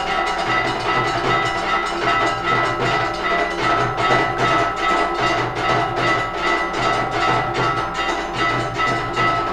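Hindu temple aarti: bells ringing on and on over evenly repeated metallic percussion strokes, several a second, with a low drum pulsing in and out.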